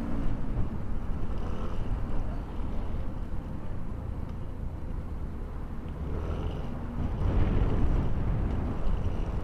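Motorcycle on the move: steady engine and road noise with heavy wind rumble on the microphone, getting louder about seven seconds in.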